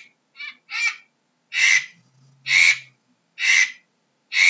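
A bird's harsh, rasping calls, about one every second, some with a short quieter note just before.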